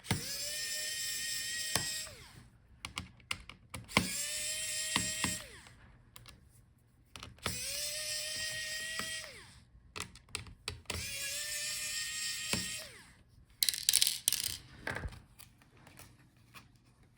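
Small electric screwdriver running in four short bursts, each spinning up to a steady whine and winding down, backing out the laptop's hinge screws. A few light clicks and rattles of loose screws follow near the end.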